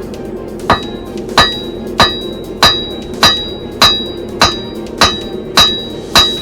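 Hand hammer striking hot steel on an anvil in a steady rhythm, ten blows under a second apart, each with a short high ring from the anvil.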